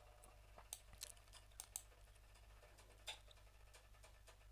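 Faint, scattered clicks of computer keys, a handful of quiet taps over a low steady hum.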